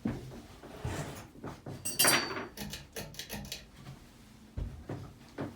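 Hampton Bay Cameron II ceiling fan humming faintly as it is switched up to high speed. Over the hum come a series of light knocks and clicks, with a louder metallic clatter about two seconds in.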